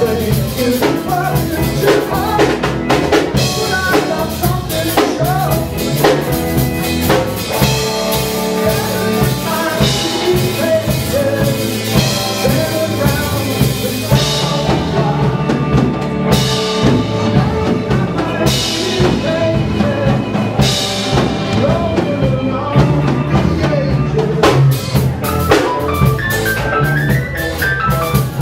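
Live band playing a song, the drum kit keeping a steady beat under sustained pitched instrument tones.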